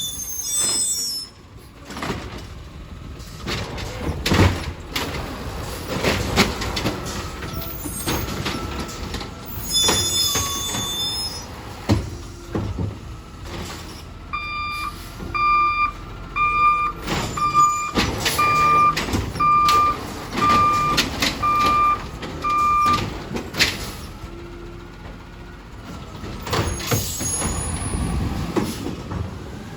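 Garbage recycling truck working: its engine runs under repeated clanks and bangs and short high hisses or squeals, and its backup alarm beeps about once a second, nine times, in the middle.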